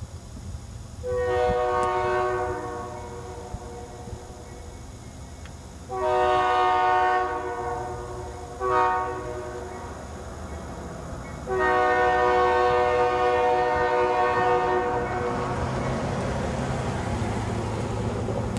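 Diesel freight locomotive's air horn sounding long, long, short, long, the standard grade-crossing signal, over the low drone of the engines. Near the end the rumble of the approaching train grows louder.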